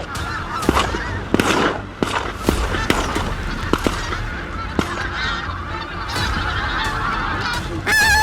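Pink-footed geese honking, many short overlapping calls from a flock, with a louder, clearer call near the end. Wind rumbles on the microphone underneath.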